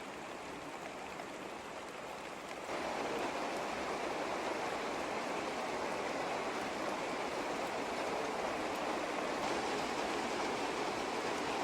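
Steady rushing of running water, getting louder about two and a half seconds in.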